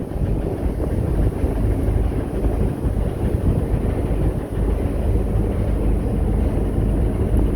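Steady low rumble of a running vehicle or engine.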